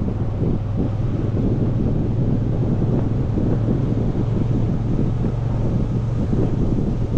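Motorcycle riding at a steady speed: heavy wind buffeting on the microphone, with the engine running at a steady, even note underneath.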